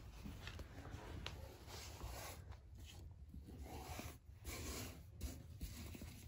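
Faint, irregular scraping and rubbing as cut dough pieces are handled and gathered on a board, with a few light taps.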